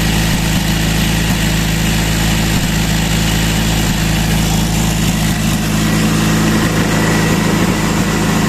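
Subaru EJ20X 2.0-litre turbocharged flat-four engine, out of the car, running at a steady idle on a test stand for checking.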